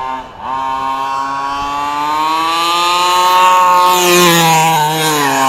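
Redcat 1/5-scale monster truck's 32cc two-stroke gas engine at high revs. It drops off briefly just after the start, then its pitch climbs slowly for about three seconds, dips slightly near the end and picks up again.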